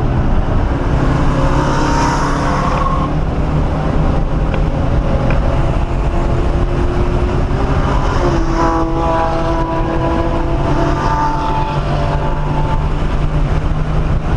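1997 Ford Mustang SVT Cobra's 4.6-litre DOHC V8 running hard on a race track, heard from inside the cabin over wind and tyre noise. Its pitch climbs and shifts about eight seconds in as the throttle changes.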